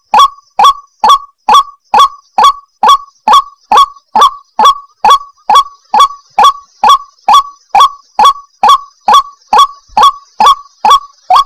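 White-breasted waterhen calling: a short, upward-sweeping note repeated steadily, a little over twice a second, in the bird's monotonous 'ruak-ruak' series used as a lure call.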